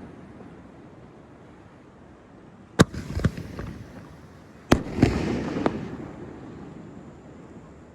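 Fireworks bursting: two sharp bangs about two seconds apart, each followed by a few smaller pops and a rumbling echo that fades out.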